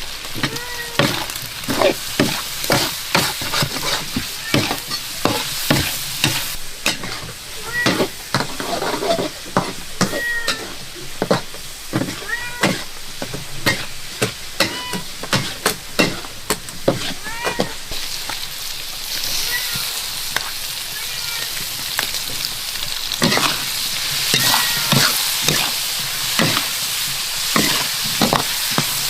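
Food sizzling in a pan as it is stirred, with a metal spatula repeatedly knocking and scraping against the pan; the sizzle grows louder in the last third.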